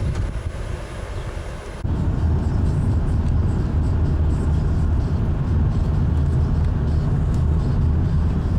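Steady low rumble of road and engine noise inside a moving car. It starts abruptly about two seconds in, after a quieter stretch.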